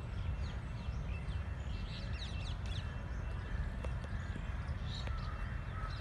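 Small birds chirping in the background, a scatter of short falling calls, over a steady low rumble.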